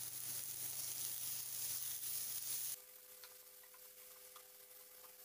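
Chopped vegetables (cabbage, carrot, peas and capsicum) sizzling in oil in a non-stick frying pan. About two and a half seconds in, the sizzle cuts off abruptly to a much quieter stretch with a faint steady hum and a few light clicks of a spatula stirring the vegetables.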